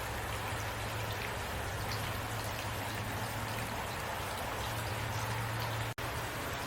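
Heavy rain falling steadily, a dense even hiss of drops with a low steady rumble underneath. The sound cuts out for an instant about six seconds in, then carries on unchanged.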